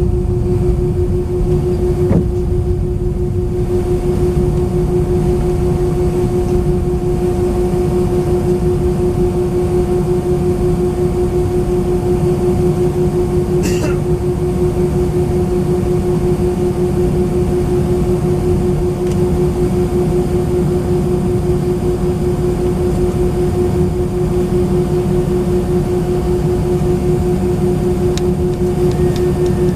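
Airbus A319's IAE V2500 jet engines running at a steady setting, heard inside the passenger cabin as an even hum over a low rumble. There is a faint tick a couple of seconds in and a brief higher sound about halfway through.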